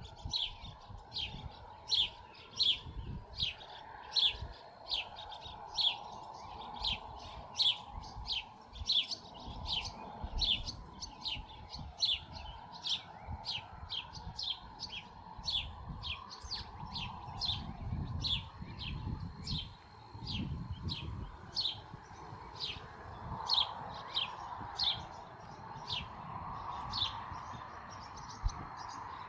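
A bird chirping over and over, short high notes that drop in pitch, about two a second, with a low rumble underneath.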